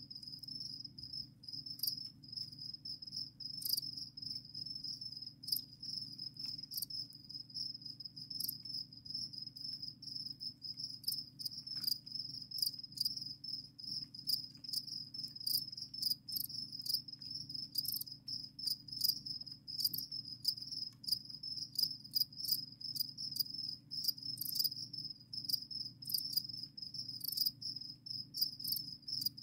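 A colony of crickets chirping as a dense, continuous chorus at one high pitch, with many short sharp ticks scattered through it.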